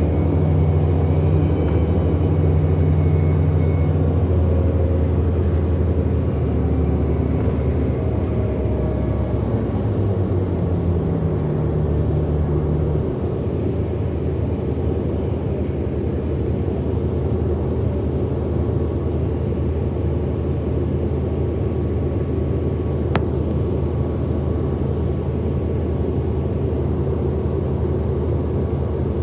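Cabin sound of a 2008 Orion NG hybrid-electric bus under way: a steady low drone from the diesel-electric drivetrain, its pitch shifting about four seconds in and again around thirteen seconds, with a faint higher whine above it. A single sharp click comes about two-thirds of the way through.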